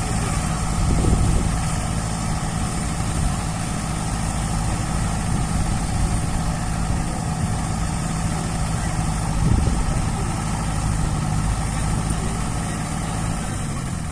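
Heavy diesel engine idling steadily, swelling louder briefly about a second in and again about nine and a half seconds in.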